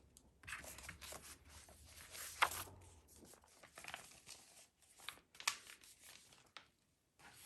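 Faint rustling and sliding of paper and card sheets being handled, with scattered light taps and one sharper tap about two and a half seconds in.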